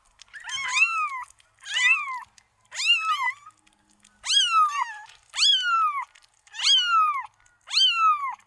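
Domestic cat meowing over and over: about seven meows, roughly one a second, each rising and then falling in pitch.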